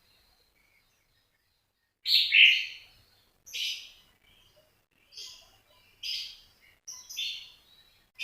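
A small songbird gives a series of short, high chirping calls, about one a second with pauses between. They start about two seconds in, and the first is the loudest.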